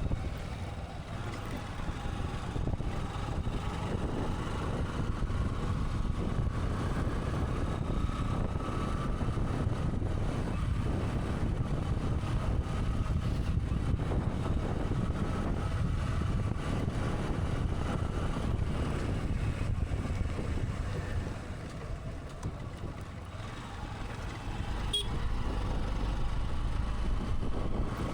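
Motorcycle on the move: a steady engine drone under a heavy low rumble of wind on the microphone, easing off briefly near the end before picking up again.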